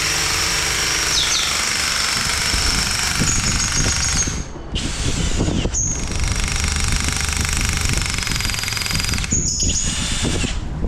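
Electric drill boring holes, running in three runs with two short breaks, its motor giving a high steady whine over the drilling noise.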